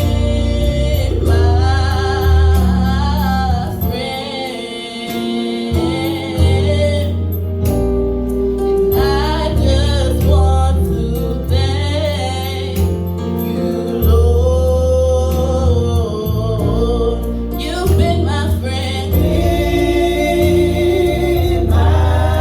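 Gospel music: singers, at times a choir, over a band with a strong bass line.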